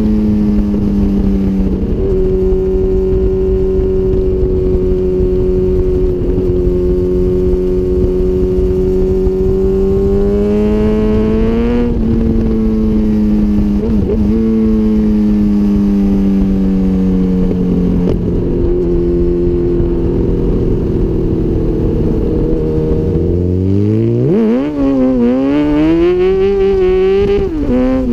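2004 Honda CBR1000RR inline-four engine through a full Micron exhaust, riding under way over a steady rushing noise. The engine note holds steady, climbs in pitch about a third of the way in and drops back sharply. Near the end it falls away, then revs up and down several times.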